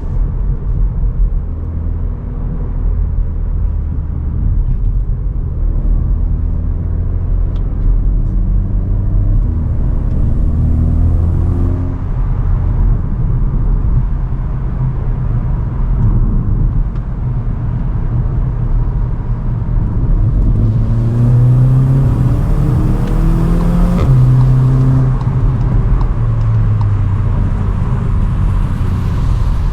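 CUPRA Ateca's turbocharged 2.0-litre four-cylinder engine and stock exhaust under hard acceleration, the engine pitch climbing through the revs and dropping at an upshift about twelve seconds in and again about twenty-four seconds in, over steady road rumble.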